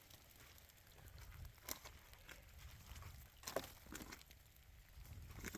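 Near silence broken by a few faint, sharp cracks and clicks of wood, scattered and irregular, the loudest about three and a half seconds in.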